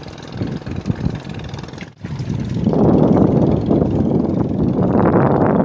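Strong wind buffeting the microphone as a rumbling roar, uneven at first. It cuts about two seconds in and comes back louder and steadier.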